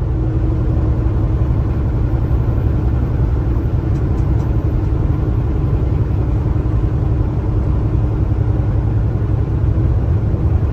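Kenworth T680 semi truck driving down the highway: a steady low rumble of engine and road noise, with a faint steady hum running through it.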